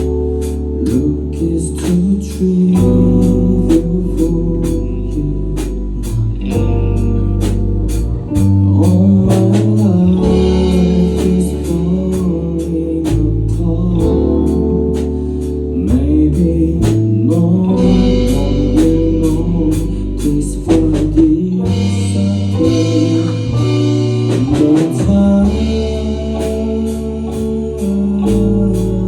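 A band playing a song, with a sung vocal over bass and a steady beat.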